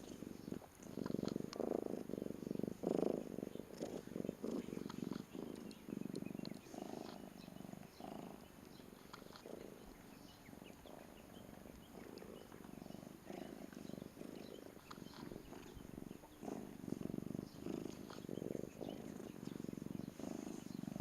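Domestic cat purring close by, in swells about once a second, fainter for a few seconds midway.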